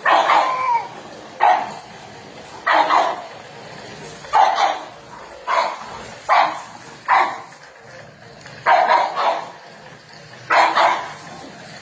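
A dog barking repeatedly, about nine barks spaced roughly a second or so apart, some of them drawn out.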